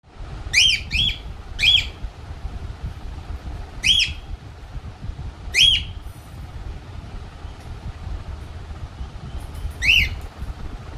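A young pet parrot giving short squawking calls, each rising then falling in pitch. Three come in quick succession in the first two seconds, then single calls follow at intervals, over a steady low background rumble.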